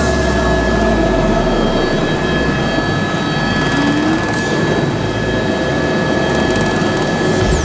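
Helicopter in flight: a loud, steady drone of engine and rotors with a few constant whining tones.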